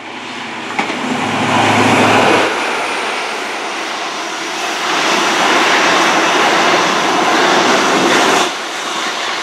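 Class 43 High Speed Train passing straight through a station at speed. The noise builds quickly, and a deep engine hum from the leading power car is loudest about two seconds in. After that comes a steady rush from the coaches going by, which dips briefly near the end.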